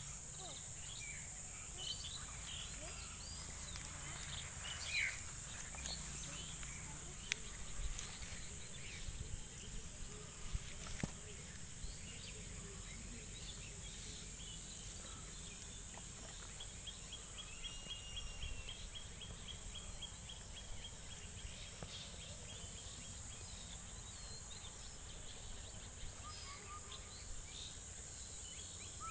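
Rural outdoor ambience: insects droning steadily at a high pitch, with scattered bird chirps and calls, and a fast run of ticking chirps around the middle.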